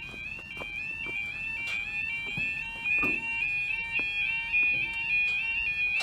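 Level crossing audible warning sounding: a two-tone electronic alarm alternating rapidly between two high pitches, with more than one sounder repeating out of step. A few short knocks are heard alongside it.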